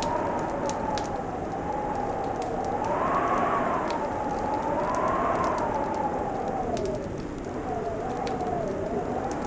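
Wood fire crackling with scattered sharp pops over a steady rushing noise, under a howling tone that slowly rises and falls.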